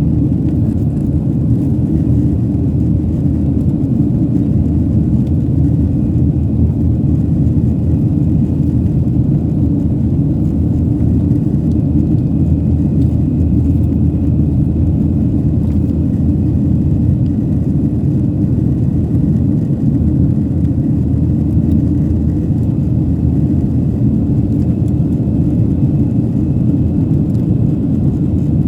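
Airliner engines and airflow making a steady, loud low rumble, with a faint steady whine above it.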